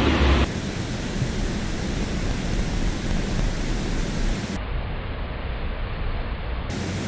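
Youghiogheny River rapids making a steady rush of water, louder for the first half second.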